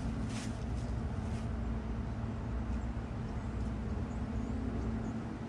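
Steady low engine hum with a constant drone, no change in pitch.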